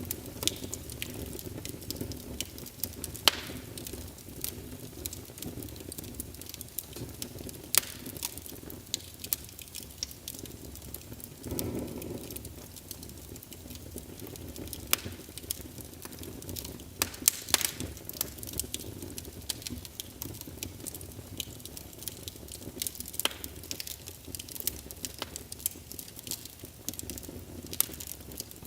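Wood fire burning in a fireplace: a steady low rumble of flames with frequent sharp, irregular crackles and pops. There is a brief louder swell about twelve seconds in.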